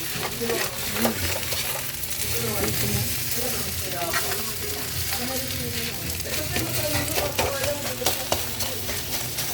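Garlic fried rice with chicken sizzling in a hot pan while a spatula stirs and tosses it, with frequent short scraping clicks against the pan.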